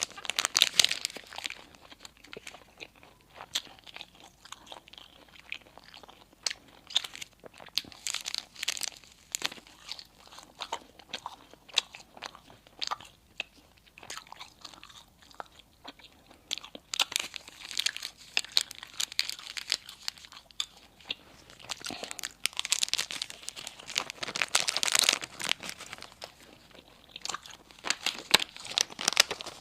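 Close-miked eating: a person biting and chewing crisp baked food with irregular crunches and wet chewing clicks, growing heavier for a few seconds about two-thirds of the way in.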